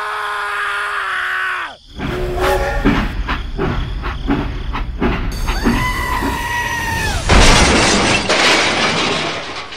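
Toy steam train sound effects: a long held wail that drops away, then rapid clicking chugging along the track, a whistle blast, and a loud crash with shattering as the locomotive derails into the tractor, about seven seconds in.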